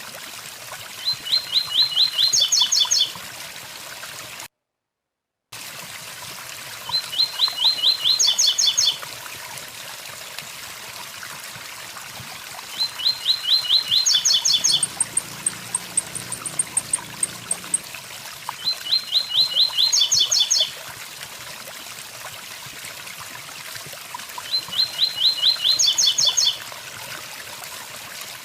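Blue-black grassquit (tiziu) singing its 'tui tui zel zel' song: a quick run of about eight notes ending in a higher trill, repeated five times about six seconds apart, over the steady rush of a waterfall. The sound cuts out completely for about a second, some four seconds in.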